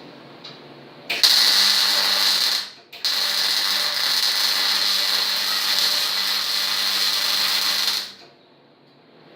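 MIG welding arc laying beads on steel: a short run of steady hissing buzz, a brief break, then a longer run of about five seconds that stops abruptly.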